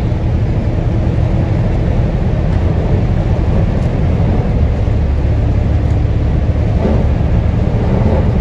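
Steady low rumble of a moving vehicle heard from inside the cab: engine and road noise while driving on a snow-covered road.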